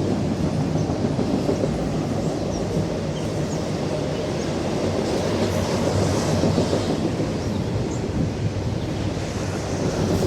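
Freight train cars rolling past: a steady, loud rumble of steel wheels on rail, with a few faint ticks scattered through it.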